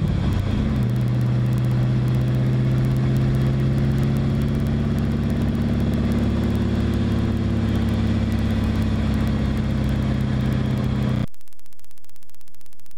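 Car engine running steadily under way, heard from outside the car with road noise. Its note dips right at the start, then holds and climbs slowly. About eleven seconds in it cuts off abruptly to a steady hiss.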